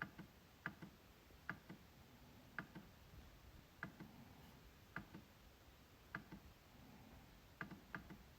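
MacBook trackpad being clicked, about nine faint, sharp clicks at an uneven pace of roughly one a second. Most clicks come as a pair, a louder click followed by a softer one a split second later, as on a press and release. Two clicks come close together near the end.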